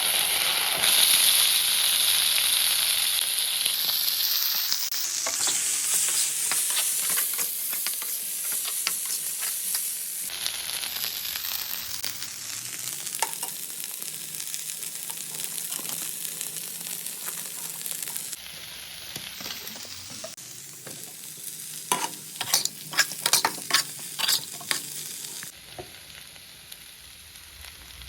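Food sizzling in hot oil in a pan as it is stirred, the sizzle loudest in the first few seconds. About three quarters through comes a run of sharp knocks and scrapes of the stirring utensil against the pan.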